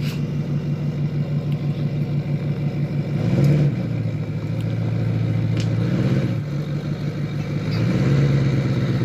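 Pickup truck engine running near idle with a steady pulsing note, picking up speed briefly about three seconds in, then settling, and rising again near the end as the truck is maneuvered.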